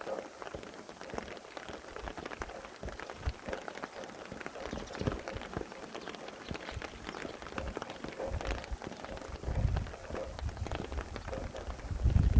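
Steady rain falling, with many individual drops pattering close by. Low gusts of wind rumble in about two-thirds of the way through and again at the very end.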